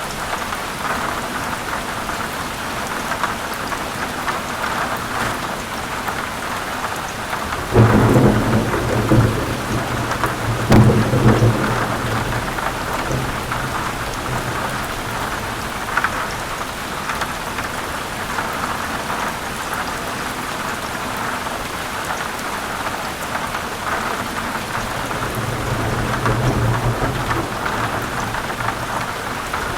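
Heavy rain falling steadily, with thunder. A sudden clap about eight seconds in is followed by a second crack a few seconds later, and both rumble on before dying away. Another low rolling rumble builds near the end.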